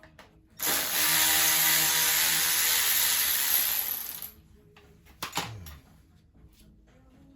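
A cordless power driver runs in one steady burst of almost four seconds, then gives a short second burst about five seconds in that winds down in pitch. It is being used on the fasteners of a Stihl MS 171 chainsaw while the carburetor housing is taken off.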